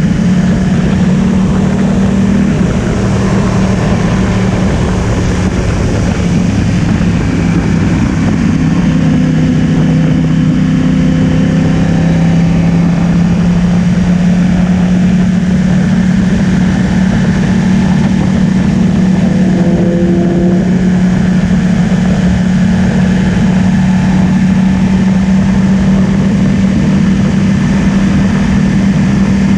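Yamaha R1's inline-four engine running at a steady, even pitch, with small shifts in engine speed a couple of seconds in and again near the middle.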